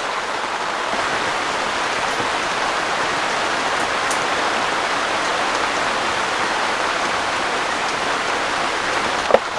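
Heavy rain pouring steadily, with a single sharp tap near the end.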